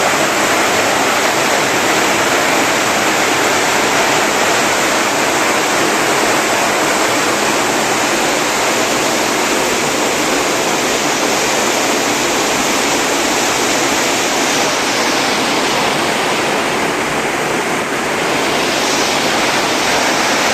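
Steady rush of flowing water, loud and unbroken.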